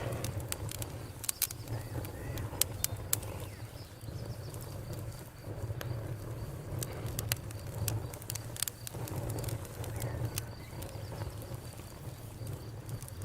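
Campfire burning, with a steady low rumble of flames and frequent sharp crackles and pops of burning wood.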